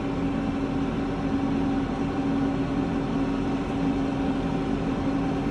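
Big tractor engine running steadily while the tractor is driven, a constant even hum with no change in pitch.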